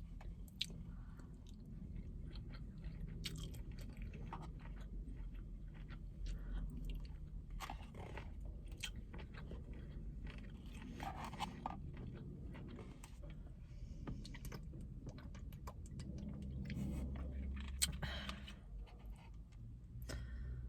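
A person chewing and crunching food close to the microphone, with irregular crisp crackles and wet mouth sounds throughout.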